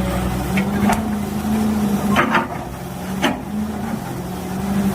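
Volvo excavator's diesel engine running steadily, with a few sharp metallic knocks about one, two and three seconds in.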